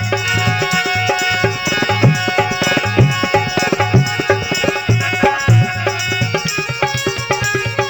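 Instrumental break in a Rajasthani folk song, with no singing: hand drums play a brisk rhythm with a heavy low beat about once a second, under held melodic notes.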